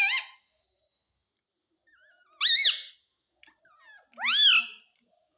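Pet parrot giving short, high-pitched calls that rise and fall in pitch: the tail of one at the start, then two more, about two and a half and four seconds in.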